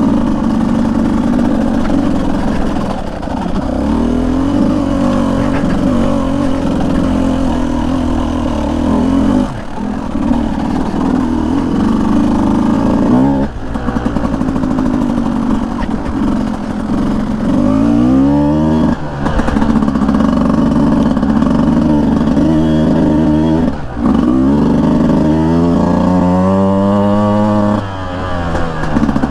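Beta 200 two-stroke dirt bike engine running under changing throttle. Revs climb in rising sweeps about eighteen seconds in and again near the end, with a few brief drops where the throttle closes.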